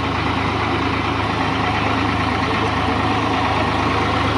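Diesel tractor engine running at a steady speed, with an even low beat and no revving.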